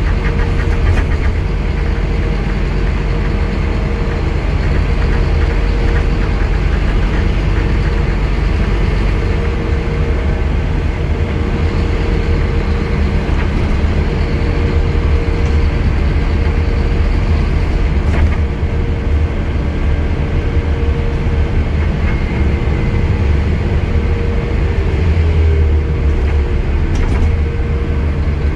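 Scania N230UD double-decker bus running under way: the diesel engine's steady low drone with a constant whining tone above it, the lowest rumble shifting a little twice.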